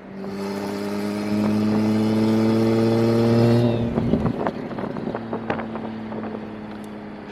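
Single-turbo BMW N54 inline-six accelerating under load, its pitch climbing steadily for about three and a half seconds. It then lifts off with a quick run of exhaust pops and crackles and settles to a lower, steady running note.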